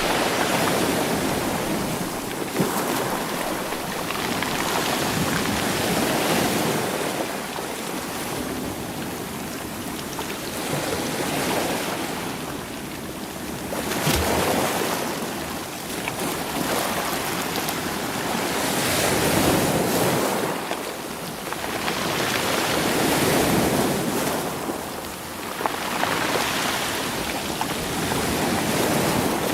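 Waves breaking and washing over rocky shore stones, rolling them, the surge rising and falling every few seconds with a few sharp clacks of stone.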